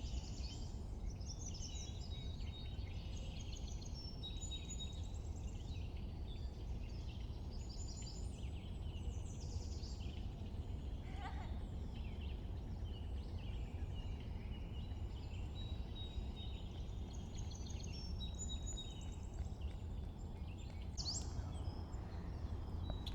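Several birds chirping and calling over and over, with short whistled notes and trills, over a steady low background rumble.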